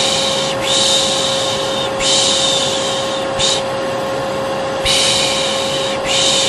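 Vacuum cleaner running with a steady hum, overlaid by a person's repeated soothing shushes ('pış pış', 'shhh'), each lasting about a second, in a run with a short break in the middle: a lulling shush-and-vacuum white-noise mix used to calm babies.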